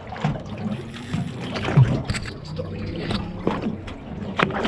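Water sloshing against a boat's hull, with scattered light knocks and clicks.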